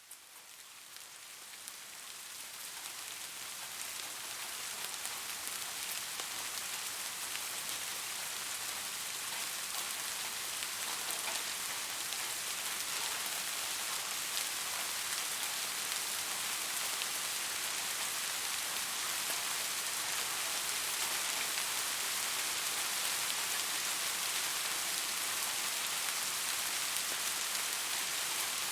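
Steady rain falling, an even hiss of many drops with faint individual patters. It fades in from silence over the first few seconds, then holds steady.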